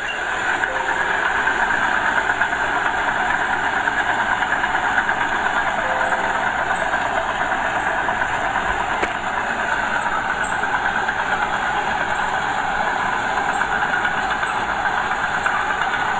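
Diesel engine of earthmoving machinery running steadily with a fast, even throb. There is a single short click about nine seconds in.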